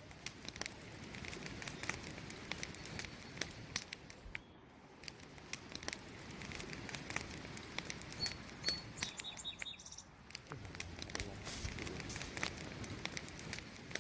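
Wood campfire burning, with dense irregular crackles and snaps over a steady low rush of flame. A few faint high chirps come through about eight to nine seconds in.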